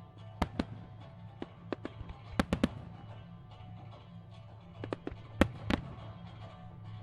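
Fireworks shells bursting in an irregular volley: a dozen or so sharp bangs, the loudest clustered about two and a half and five and a half seconds in, over music playing.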